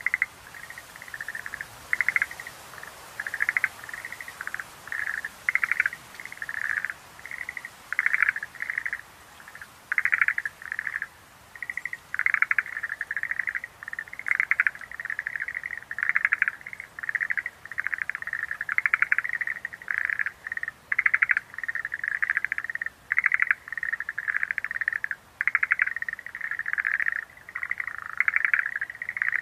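Schlegel's green tree frogs calling: short calls repeated one after another, with several overlapping and crowding closer together in the second half.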